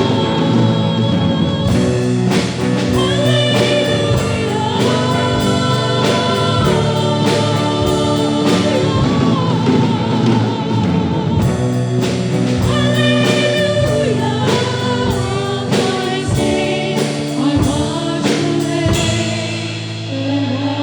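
Singers and a band performing a contemporary worship song, several voices over sustained chords with regular drum hits.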